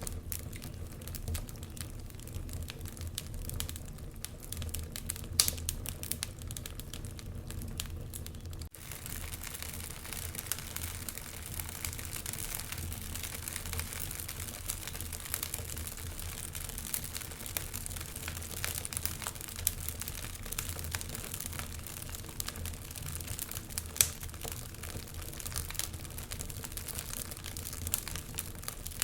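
Wood fire burning in a fireplace, crackling with many small irregular snaps and a couple of louder pops, over a steady low rumble. A brief dropout about nine seconds in, after which the hiss is a little stronger.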